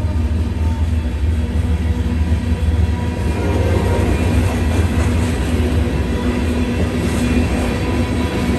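Union Pacific manifest freight train's covered hopper cars rolling past over a grade crossing: a steady, loud low rumble of wheels on the rails.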